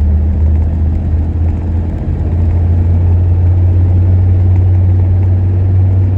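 Inside the cab of a 1990 GMC 1500 pickup under way: a steady low engine and drivetrain drone, whose note steps up slightly about two seconds in. The automatic transmission is held in second because the truck won't shift into third.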